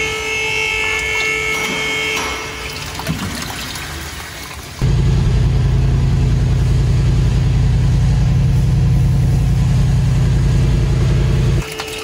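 1964 Buick Riviera's 400-cubic-inch V8 running, a steady low rumble heard from the driver's seat, while the cooling system is being flushed with tap water. It starts abruptly about five seconds in and cuts off just before the end.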